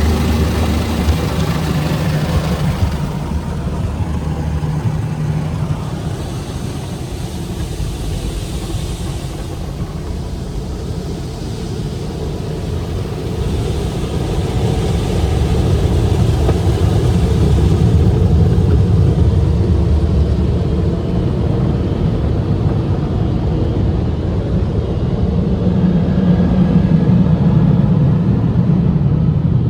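Tommy tunnel car wash equipment running with a steady low hum and rumble. A hiss of spray or air is heard for the first few seconds, and the rumble swells louder about halfway through and again near the end.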